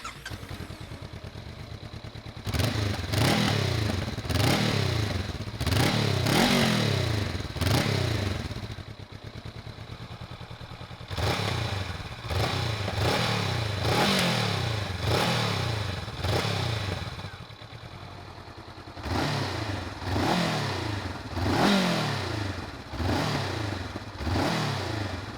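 A 2022 Honda CBR500R's parallel-twin engine idling through its stock exhaust and being revved in three runs of quick throttle blips, each rev rising and falling in pitch, with short stretches of idle between the runs.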